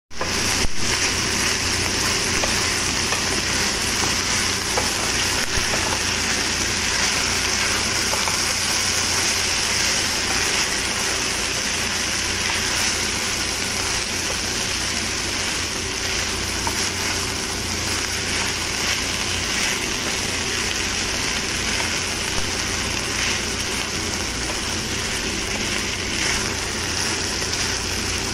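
Mixed diced vegetables sizzling steadily in a hot frying pan as they are stirred with a wooden spatula.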